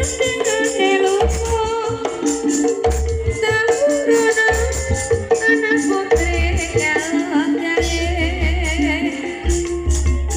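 Javanese ebeg accompaniment music: a singer with a wavering voice over recurring low drum beats and a steady held tone.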